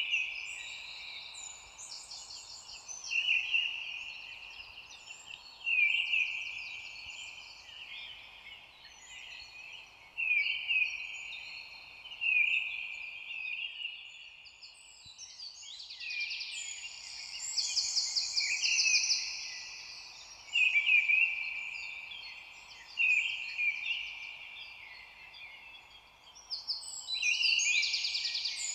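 Songbirds singing: short, high, trilled song phrases repeating every two to three seconds, several voices overlapping, over a faint steady background hiss.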